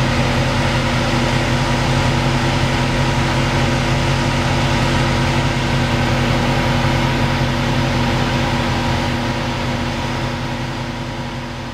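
2011 Dodge Challenger SRT8's 392 (6.4-litre) Hemi V8 idling steadily, fading out over the last few seconds.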